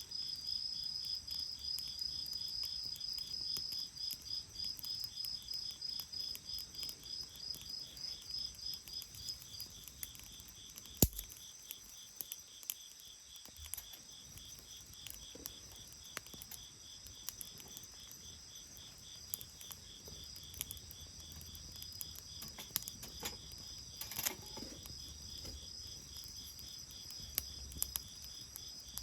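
Crickets chirping in steady pulsed trills, the loudest one stopping about ten seconds in, over scattered sharp pops and crackles from a wood bonfire, the loudest pop about eleven seconds in.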